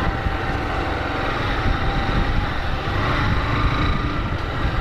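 Honda CG 150 Fan motorcycle's single-cylinder engine running steadily while riding, with wind and road noise on the rider's mic.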